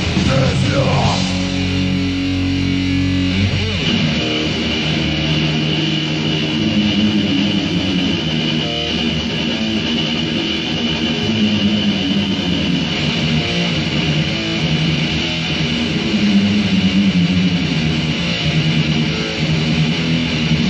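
Death metal demo recording: distorted electric guitar riffs over bass guitar, loud and dense.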